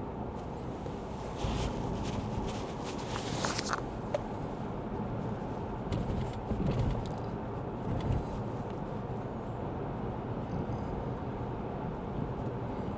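Cabin noise of a Lexus ES 350 F Sport driving on a wet road: a steady low rumble of tyres and engine. A few brief hissing swells come about a second and a half in and again around three to four seconds.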